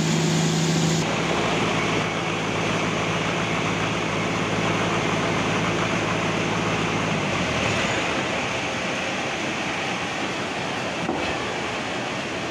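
Bandsaw sawmill running with a steady machine hum. The hum shifts about a second in and its low tones drop away about seven seconds in, leaving a steady rushing noise.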